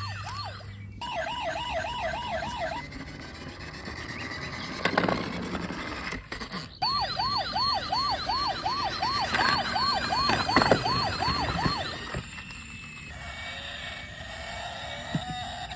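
Toy car's electronic siren sounding in quick, repeating rising-and-falling wails, switching to a faster warble for a couple of seconds, pausing, then wailing again for about five seconds. A few knocks sound in the pause.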